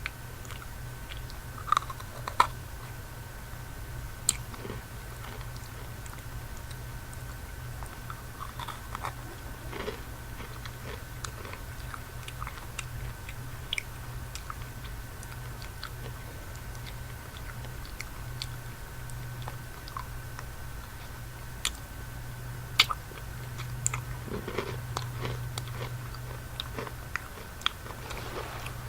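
Close-miked chewing of candy, with scattered sharp crunches and mouth clicks over a steady low hum.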